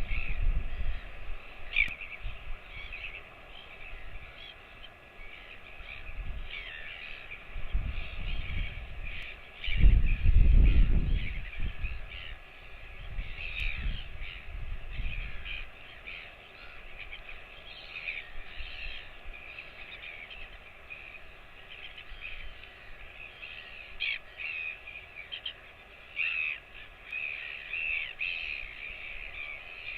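Birds calling throughout in many short calls, with a low rumble about ten seconds in.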